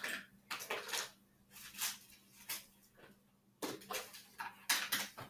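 Irregular clattering and knocking of small hard objects being picked up and set down, like rummaging through containers.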